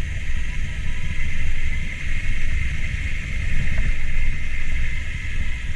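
Motorcycle engine running steadily while riding on a dirt road, mixed with wind noise on the microphone.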